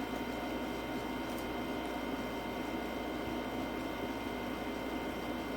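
Steady background hum and hiss with a few faint constant whines, unchanging throughout, like a running fan or appliance in a small room.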